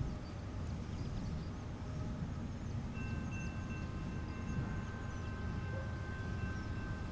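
BNSF freight train rumbling along the line. About three seconds in, a steady high-pitched tone of several notes joins it and holds.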